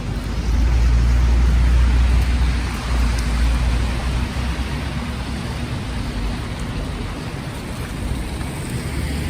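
Street traffic in the snow: a vehicle's low engine rumble, loudest in the first few seconds, over a steady hiss of tyres on wet, slushy pavement.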